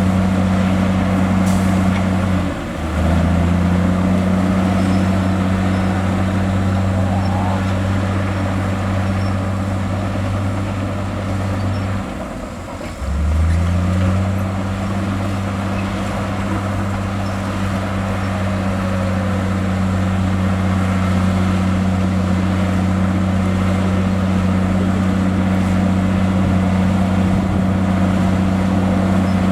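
Heavy diesel engine of earthmoving equipment running loudly and steadily under work. Its low note drops away briefly about three seconds in and again near the middle, then picks back up.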